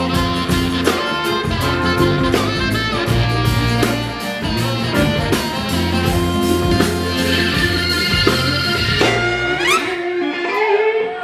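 A live soul-rock band playing an instrumental passage: electric guitar and bass over a steady drum beat. About nine seconds in the bass and drums drop out, leaving sliding higher notes.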